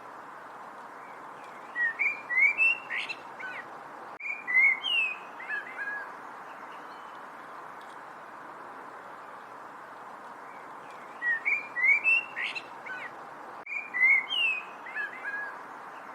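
A songbird singing two bouts of quick, sweeping whistled notes, the second about ten seconds after the first, over a steady background hiss.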